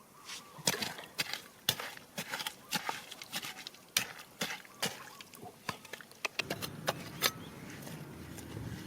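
Stones and gravel knocking and clicking together in quick, irregular taps, joined about six seconds in by the sound of water sloshing.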